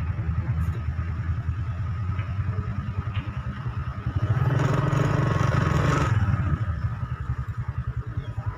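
Motorcycle engine running with a steady low pulsing. It grows louder for about two seconds midway, with a rushing noise over it.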